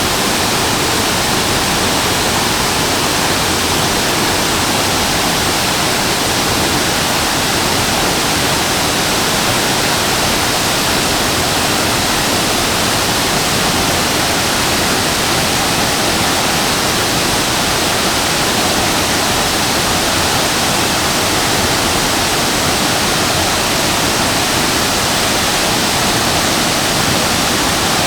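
Shasui Falls waterfall pouring, a steady, unbroken rush of falling water.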